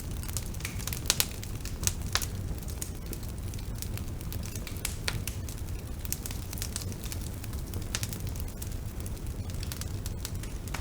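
Bonfire burning: a steady low rumble of the flames under irregular sharp crackles and pops.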